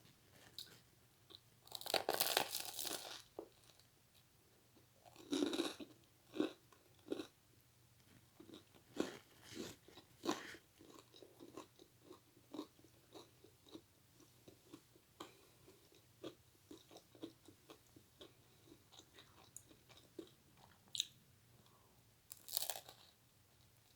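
A person eating lasagna and garlic bread close to the microphone: a loud crunchy bite about two seconds in, more crunches between five and ten seconds, then a steady run of small chewing clicks, with two more crunches near the end.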